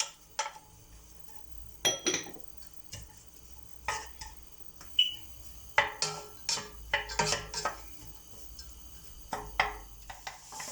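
Kitchen utensils and a cooking pot clinking and clattering in scattered short knocks, with one brief ring about five seconds in, as carrot and onion are put into the pot to braise.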